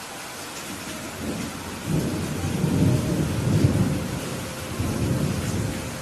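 Steady rain falling, with a roll of thunder that builds about a second in, rumbles for about four seconds and dies away near the end.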